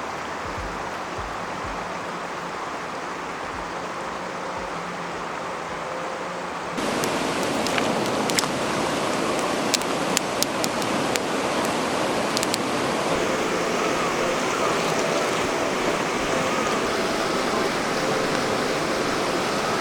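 River stream rushing with a steady noise. About seven seconds in it gets louder and brighter, and scattered sharp clicks sound over it.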